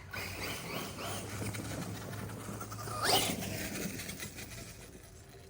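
Arrma Kraton RC car's electric motor whining as the car drives, with a loud rising whine about three seconds in as it speeds up, then fading.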